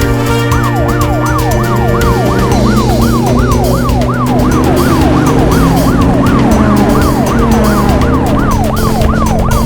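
Siren wailing rapidly up and down, about two or three sweeps a second, starting about half a second in, over background music with a steady beat.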